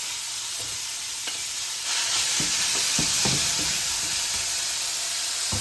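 Seasoned chicken breast strips frying in oil in a pan, a steady sizzle that grows louder about two seconds in, with a few light knocks as they are stirred.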